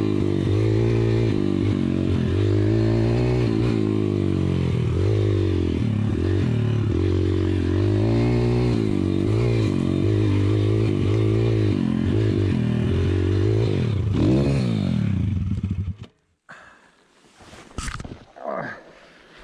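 YCF pit bike's single-cylinder four-stroke engine running under varying throttle at low speed, its pitch rising and falling. Near the end it revs up once, drops back, and cuts off suddenly about sixteen seconds in, leaving only faint scrapes and clicks.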